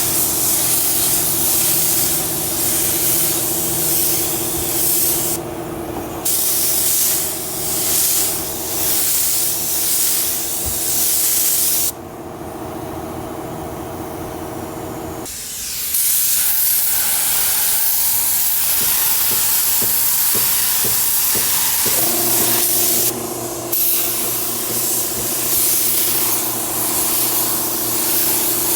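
Compressed-air paint spray gun hissing in long passes, with short pauses where the trigger is let go.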